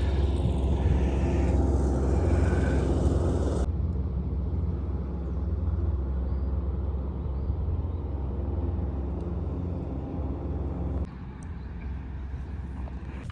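A car engine running steadily with a low, even hum; the hum drops away about eleven seconds in.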